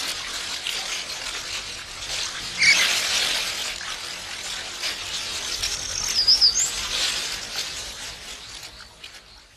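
River water running, with a splash about three seconds in, and a bird's short warbling chirp about six seconds in.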